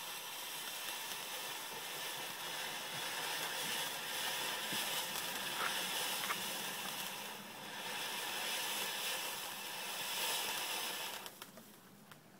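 A firework hissing steadily as it sprays sparks, dipping briefly partway through, then cutting off about eleven seconds in as it burns out.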